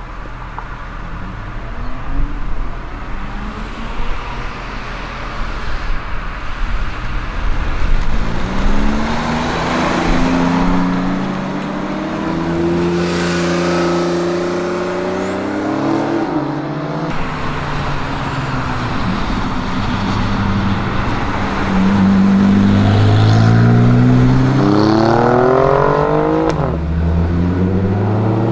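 Alfa Romeo Giulia Quadrifoglio's 2.9-litre twin-turbo V6 accelerating hard, its revs climbing steeply and dropping suddenly at a gear change, then climbing again. More sports cars pull away behind it near the end.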